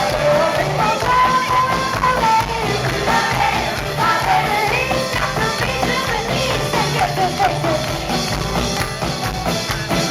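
Live rock band music in concert: a full band with drums plays on between sung lines, a melody line weaving over a steady beat.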